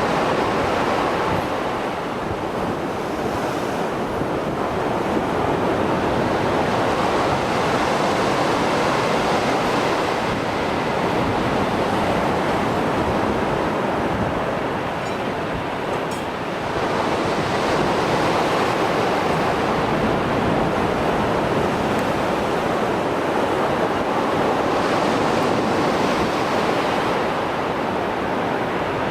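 Stormy Mediterranean surf: waves breaking and washing continuously. The wash swells and eases, dipping briefly about halfway through before building again.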